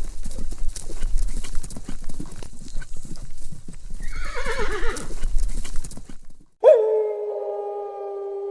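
Horse hooves clopping unevenly over a low rumble, with a horse whinnying about four seconds in: a wavering call that falls in pitch. Near the end the sound cuts off and a long, steady howl begins.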